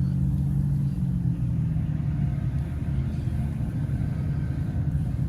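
Heavy trucks' diesel engines rumbling as the parade rolls past, with a deep engine drone strongest in the first second that then eases into a steady rumble.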